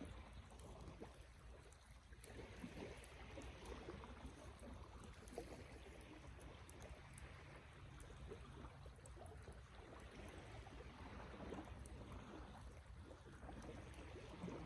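Wood campfire burning quietly: faint scattered crackles and small pops over a steady low rush.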